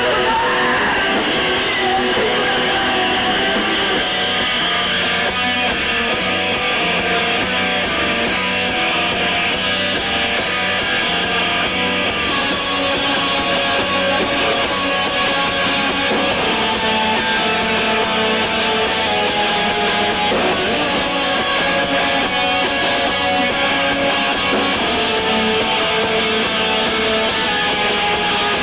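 Early emo band playing live: electric guitars strummed loudly and steadily, without a break.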